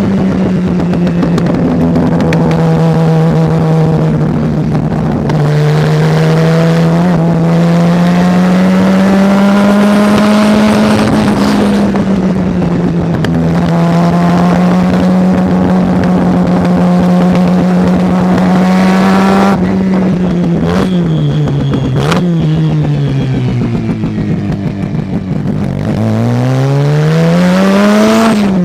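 Mazda rotary racing engine running hard at high revs, its pitch held steady for long stretches. Around two-thirds of the way through the revs dip briefly twice, then fall away for a few seconds. Near the end they climb steeply, then drop at a gear change.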